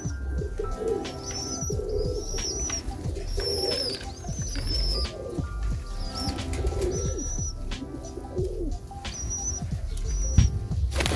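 Serbian Highflier pigeons cooing in repeated low phrases, with high chirps over them and a sharp knock near the end.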